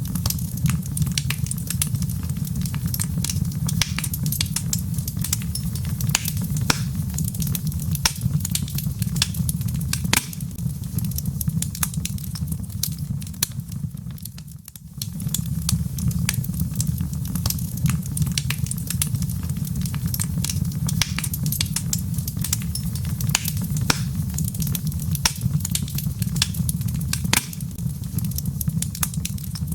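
Log fire crackling, with frequent sharp pops and snaps over a steady low rumble. The sound dips briefly about halfway through.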